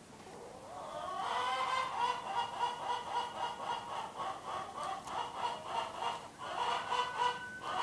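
Barnyard poultry calling: a long run of rapid, pitched calls, about five a second, that builds up over the first second or so and breaks off briefly just after six seconds.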